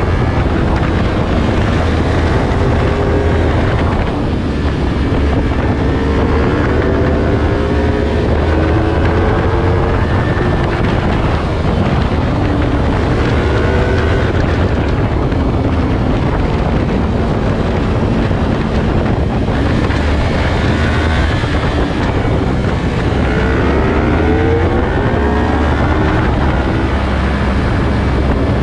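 Motorcycle engine at speed, heard onboard: its pitch climbs and drops back again and again as the rider accelerates, shifts and rolls off, under heavy wind noise on the microphone.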